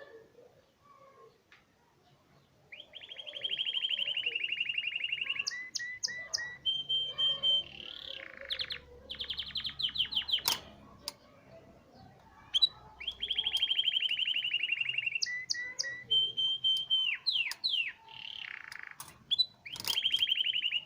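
Canary singing: long rapid trills and short whistled notes, strung into phrases that start about three seconds in and repeat in a similar sequence about halfway through.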